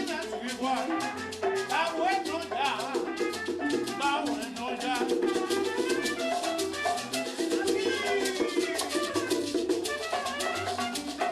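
Cuban band music in a salsa-like dance style: busy percussion strokes over a bass line that steps between notes, with melody lines on top.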